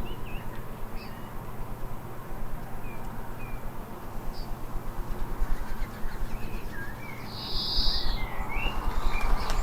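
Small garden birds calling: scattered short chirps and whistles, with a short wheezy call about eight seconds in, over a low steady background hum.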